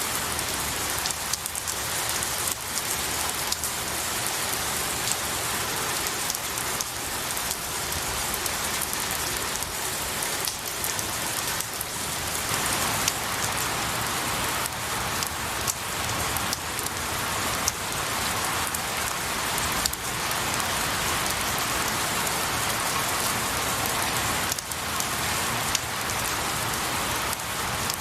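Steady rain falling on pine needles and trees, a constant patter with many individual drops ticking through it.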